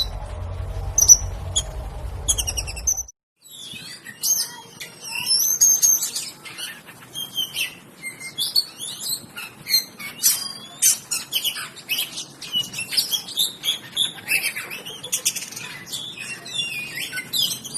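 A songbird gives short repeated chirps over a low hum. After a brief break about three seconds in, a songbird sings a rapid, continuous, varied song of high whistles and sweeping notes.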